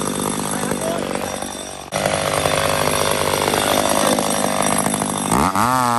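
McCulloch 850 two-stroke chainsaw running hard in a cut. Its sound changes abruptly about two seconds in, and near the end the engine revs up and drops back down.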